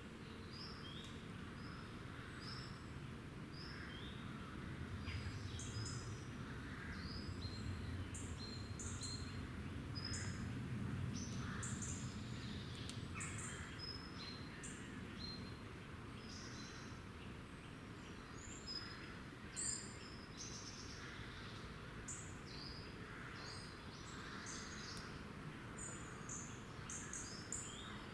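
Small woodland birds calling: many short, high chirps and call notes, scattered throughout, over a faint low rumble that swells in the first half.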